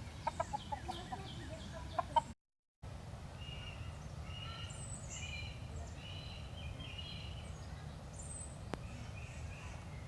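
Birds calling: first a fast run of clucking, gobble-like notes from a fowl, then, after a short break in the sound, higher chirps and twitters.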